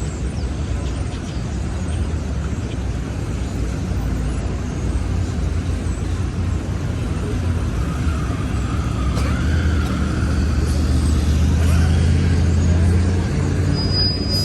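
City street traffic noise, steady and loud, with a heavy vehicle's deep engine rumble swelling in the second half and easing off near the end.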